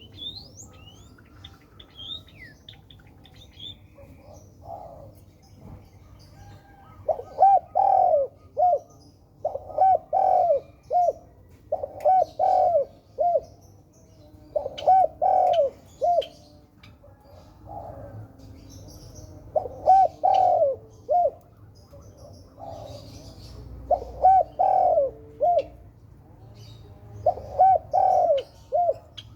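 Spotted dove cooing: repeated phrases of three or four short coos, starting about seven seconds in and coming every two to three seconds. A few faint high chirps sound in the first few seconds.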